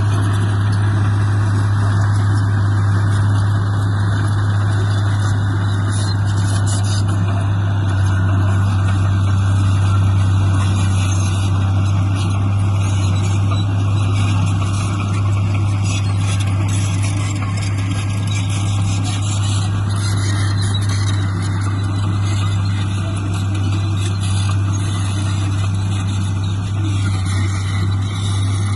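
Heavy diesel engine of earthmoving machinery running steadily at a constant speed, with a strong low hum.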